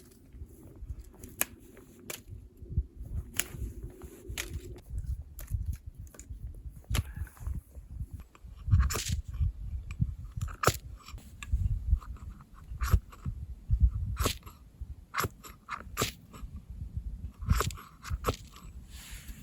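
Irregular crunching and sharp knocks, many of them scattered unevenly and louder in the second half, over a low rumble.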